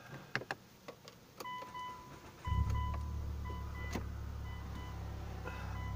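Car engine starting about two and a half seconds in and settling into a steady idle, while a dashboard warning chime beeps repeatedly; a few clicks come before the engine catches.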